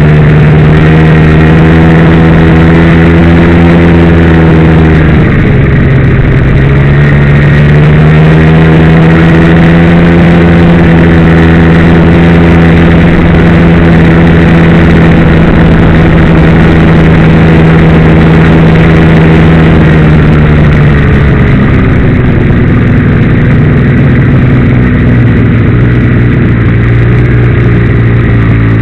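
Ski-Doo Blizzard MX snowmobile's two-stroke engine running loud and steady. Its speed dips and picks back up about five seconds in, then settles to a lower speed about twenty seconds in.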